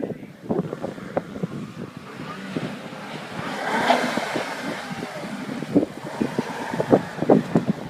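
Wind buffeting the microphone in a snowstorm, with many short low thumps, while the Audi A7's engine and tyres swell briefly about four seconds in.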